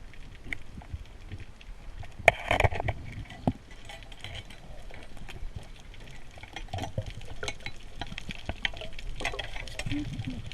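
Water splashing and sloshing with many scattered small clicks, and a sharp knock about two seconds in.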